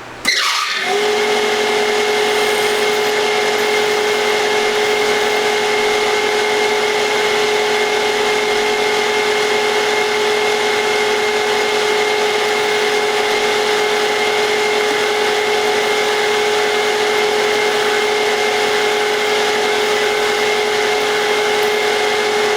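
Milling machine spindle switched on in its high speed range, spinning up within the first second with a rising whine, then running at a steady speed with a constant whine.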